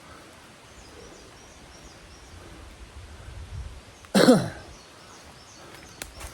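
A man coughs once, sharply, about four seconds in, the cough dropping in pitch as it ends. Faint high chirps sit over quiet bush ambience.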